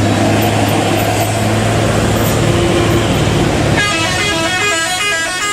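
A truck engine runs with a steady low hum. About four seconds in, a truck horn cuts in abruptly, playing a quick run of short notes that keep changing pitch, like a musical multi-tone horn.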